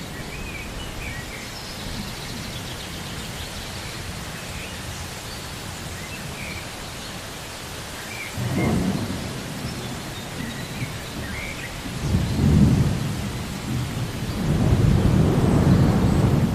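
Steady rain with thunder rumbling in: a first low rumble about halfway through, another a few seconds later, and a longer rolling rumble near the end.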